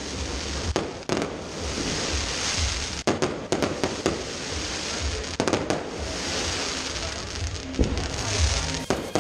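Fireworks going off: irregular sharp bangs and pops over a continuous crackle.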